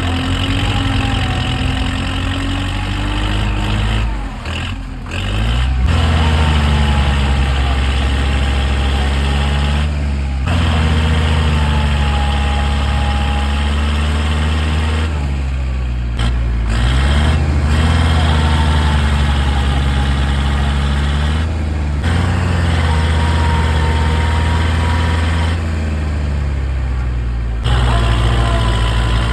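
Tractor diesel engine running and labouring, its pitch sagging and rising again as it pulls, broken by several abrupt cuts.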